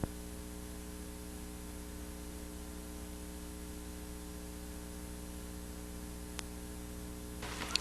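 Steady electrical mains hum with a faint hiss, with a single faint click about six seconds in.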